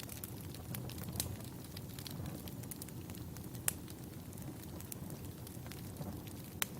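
Wood campfire crackling: a steady low rumble of burning logs with scattered sharp pops, two louder ones about three and a half seconds in and near the end.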